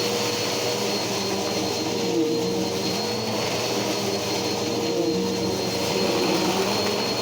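Bissell PowerForce Helix upright vacuum cleaner running steadily, its motor giving a constant whine with a thin high tone above it.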